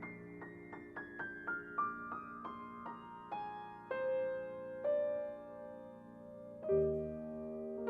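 Slow, soft solo piano music: a falling run of single notes, then a few held notes, with a low chord coming in near the end.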